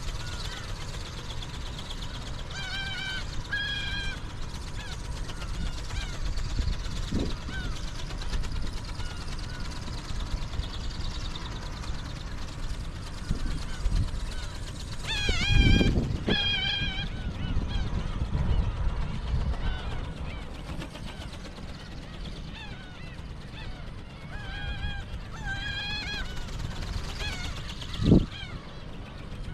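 Black-tailed gulls calling, short harsh calls in three bunches, over a steady rumble of wind on the microphone. A low thump is heard twice, the loudest about two-thirds through and another near the end.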